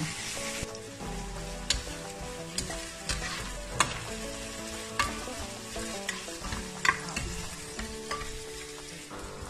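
Sliced onions and ginger sizzling in hot oil in a pot while being stirred with a spatula, with a few sharp clicks of the spatula against the pot. The onions are being cooked until clear and starting to caramelize.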